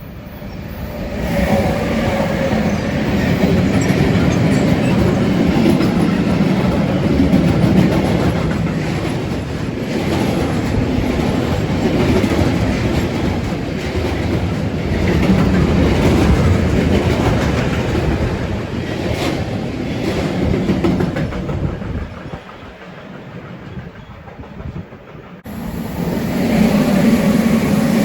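A train passing close by at speed on the Gotthard line, its wheels clattering over the rail joints with a heavy rumble that swells in about a second in and holds for some twenty seconds before easing off. Near the end the sound cuts abruptly back to a loud passing rumble.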